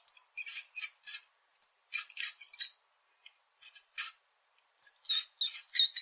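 Rat squeaking: short, very high-pitched squeaks that come in quick clusters of several each, about five clusters with short silences between them.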